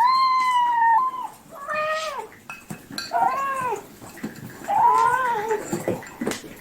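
Domestic cat meowing four times in a row, each call a drawn-out, arching meow.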